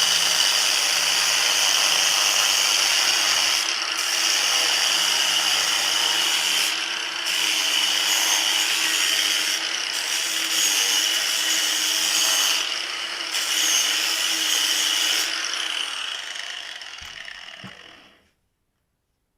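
A power tool running steadily with a motor whine, easing off briefly every few seconds, then spinning down and stopping near the end.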